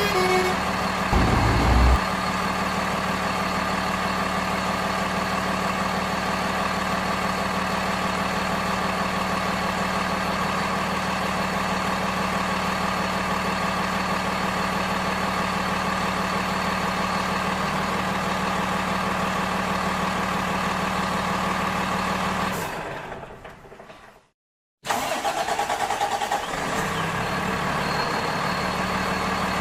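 A vehicle engine running steadily at a constant pitch, with a short low thump about a second in. Near the end it fades out to silence, then starts again abruptly.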